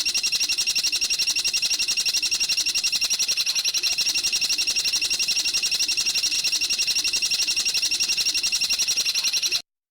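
Bird song from a masteran training track: a fast, even, high-pitched chattering trill of many notes a second, kept up without a break, that cuts off abruptly near the end.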